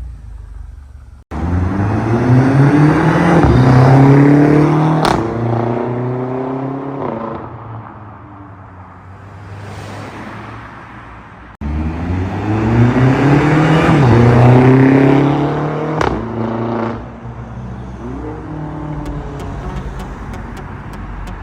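BMW X6M's twin-turbo V8 through an aftermarket valved exhaust with the mid-pipe replaced, accelerating hard twice. Each time the exhaust note rises steeply in pitch to a loud peak and then falls away.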